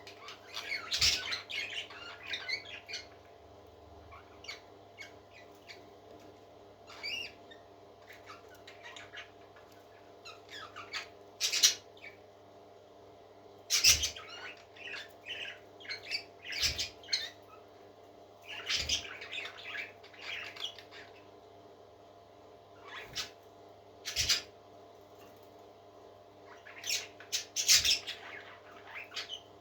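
Parrot chick squeaking in short, scattered bursts of high cheeps, with a few sharp taps in between.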